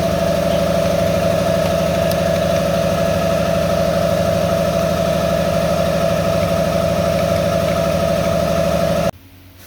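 A loud, steady mechanical hum from a running motor or engine, holding one pitch throughout and cutting off abruptly about nine seconds in.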